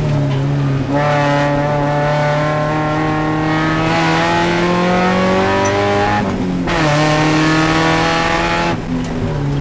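Mazda Spec Miata race car's four-cylinder engine heard from inside the cockpit under hard acceleration. Its pitch climbs steadily for several seconds, drops sharply at an upshift about six seconds in, then climbs again before another brief break near the end.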